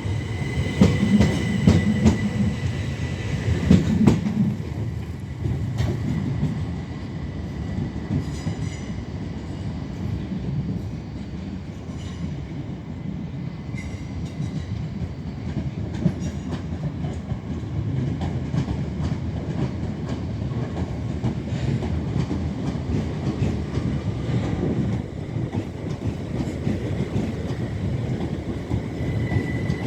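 Electric multiple-unit passenger train moving through the platform: a steady rumble of wheels on rails with scattered clicks, and a thin high whine near the start and again near the end.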